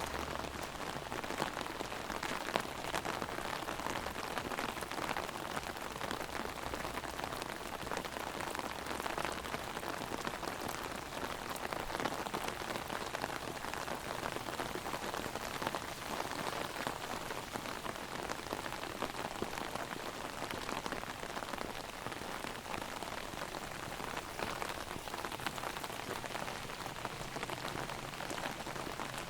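Heavy rain drumming on an umbrella overhead, a steady dense patter of drops with a few louder, sharper ones.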